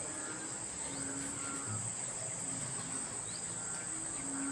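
Steady high-pitched chorus of night insects, with frogs calling in short repeated notes through it.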